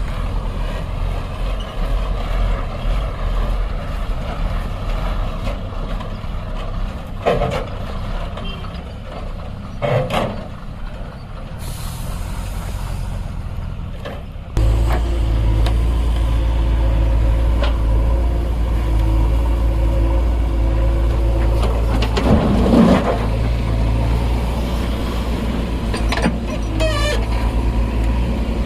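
Heavy diesel engines running, from the truck and backhoe loader working together, with a hiss of released air lasting a few seconds. Right after the hiss the engine drone gets clearly louder and stays up, as under load. A few short loud knocks or bursts are heard along the way.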